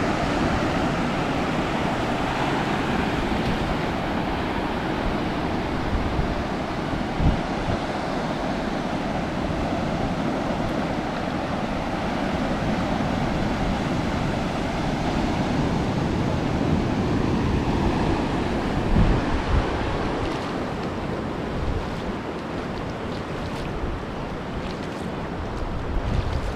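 Ocean surf washing onto a sandy beach in a steady rush, with wind buffeting the microphone in a few brief low thumps.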